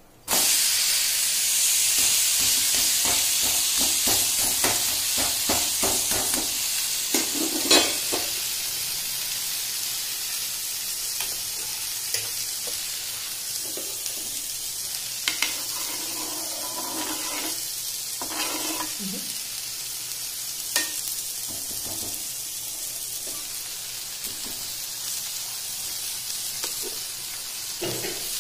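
Semolina vegetable uttapam batter sizzling on a hot non-stick tawa just after being flipped. The sizzle starts suddenly, is loudest at first and slowly dies down, with a few sharp taps scattered through it.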